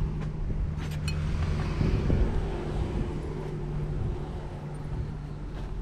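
A motor vehicle engine running with a steady low hum that stops about five and a half seconds in, with a few faint clinks of metal utensils being handled about a second in.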